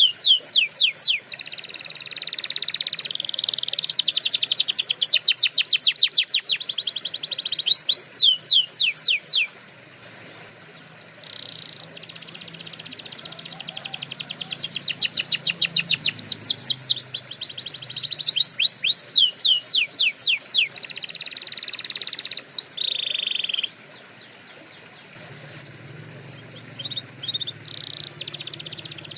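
Domestic canary singing long, fast-paced song phrases of rapidly repeated notes and rolling trills, high-pitched. The song breaks off briefly twice, about a third of the way in and again past the middle.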